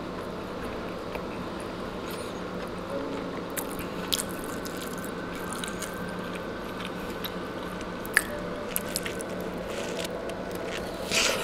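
A person chewing a chicken tortilla wrap, with scattered soft mouth clicks, then biting into the wrap again near the end, over a steady low hum.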